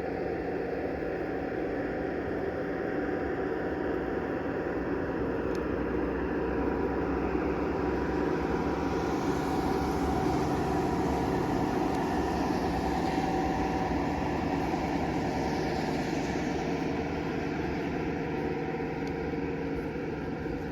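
Model train running steadily around the layout with a long string of tank cars, a continuous mechanical running sound with a few steady tones in it, growing a little louder through the middle as the train comes closer.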